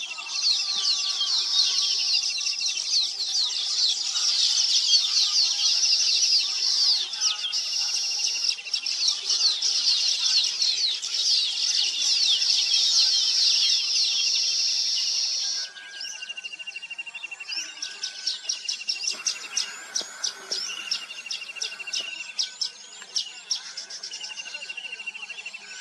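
A flock of many small birds chirping and twittering densely together. The chorus drops suddenly to a quieter, sparser chirping about two-thirds of the way through.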